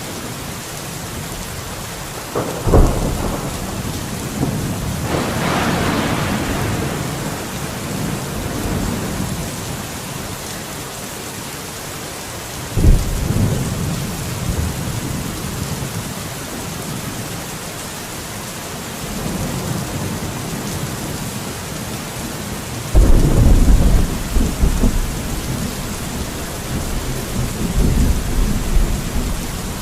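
Steady rain hissing, with several low rumbling thumps that start sharply and die away over a second or two: a few seconds in, near the middle, and twice near the end.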